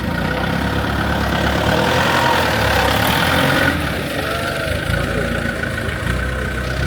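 Excavator's diesel engine running steadily, easing off slightly about halfway through.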